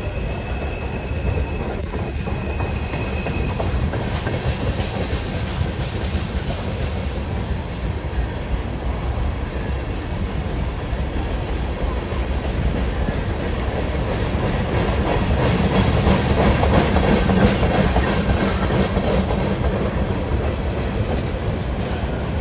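Wheeling and Lake Erie freight train rolling past, its wheels clacking over the rail joints in a steady rumble that swells a little louder past the middle.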